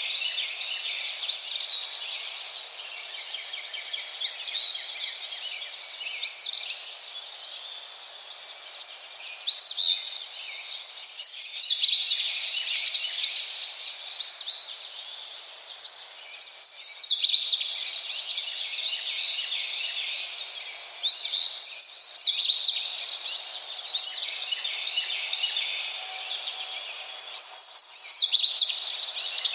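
Birds chirping and singing, with loud fast trilling song phrases repeating about every five seconds among many shorter chirps, over a steady hiss of running water.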